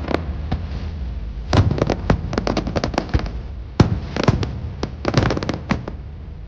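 Fireworks display: aerial shells bursting overhead in quick volleys of sharp bangs and rapid pops. The volleys start about a second and a half in and come in three clusters, over a steady low rumble.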